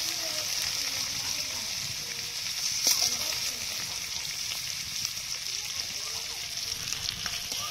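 Turmeric-coated boiled eggs sizzling steadily in hot oil in a metal kadai, with a spatula knocking against the pan once about three seconds in.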